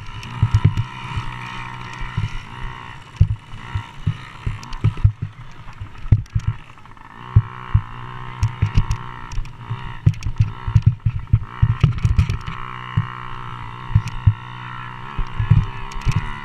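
Motocross dirt bike engines buzzing at high revs as the bikes race round the track, with many short low thumps on the microphone throughout.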